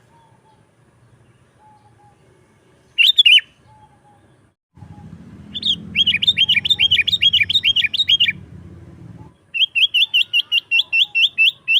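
Sooty-headed bulbul (kutilang) singing: a short call about three seconds in, then two fast runs of repeated chirping notes, several notes a second. A low background rumble sits under the first run.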